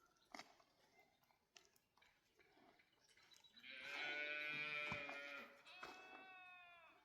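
Sheep bleating: one long bleat of about two seconds past the middle, then a shorter one near the end that falls in pitch as it ends.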